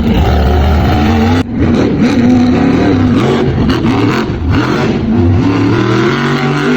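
Monster truck engines revving loudly, the pitch rising and falling as the trucks accelerate and back off, with a brief drop about a second and a half in.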